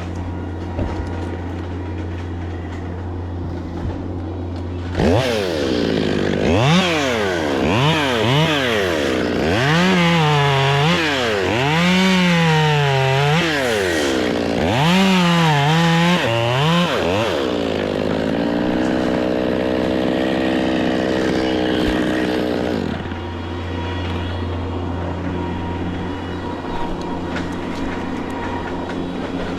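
Chainsaw engine revved up and down about eight times in quick succession, then held at a steady speed for about five seconds before it cuts back. A steady low engine hum runs underneath.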